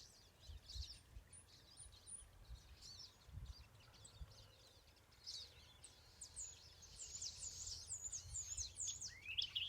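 Wild birds singing and calling, faint: scattered runs of high chirps and whistled notes, with a low rumble underneath.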